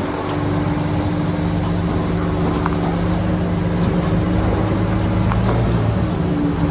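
Heavy diesel engine of earthmoving machinery running steadily at a constant speed, with a couple of faint knocks.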